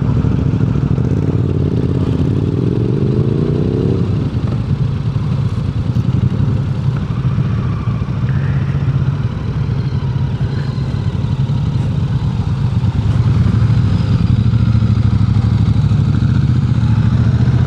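Motorcycle engine running on the move; its pitch rises about two seconds in as the bike accelerates, then holds steady, getting a little louder near the end.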